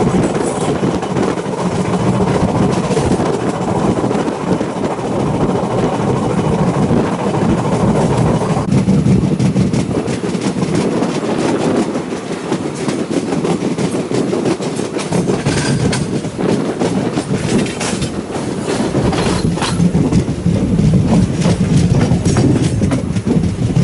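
Passenger train running at speed: a steady rumble with the wheels clicking over rail joints, the clicks coming thicker in the second half.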